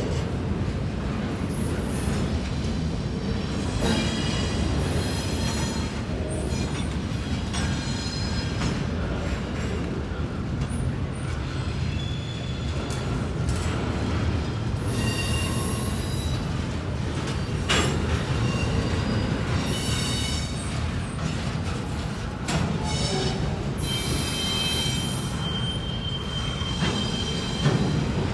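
Slow-moving double-stack intermodal train's well cars rolling by. A steady rumble of wheels on rail, broken repeatedly by high-pitched wheel squeals, with a couple of sharp clanks.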